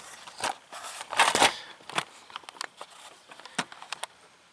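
Handling noise: scattered clicks and rustling, with a short louder scuffing burst about a second in, as the camera is moved and set in position.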